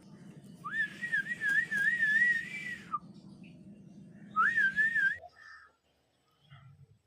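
Whistling: a long wavering whistle of about two and a half seconds that rises and falls about four times a second, then a second, shorter one of about a second, over a low steady hum that stops soon after.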